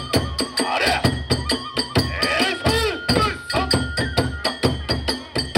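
Kagura hayashi accompaniment: drums and small hand cymbals beating a fast, even rhythm, with a bamboo flute holding and bending notes over it.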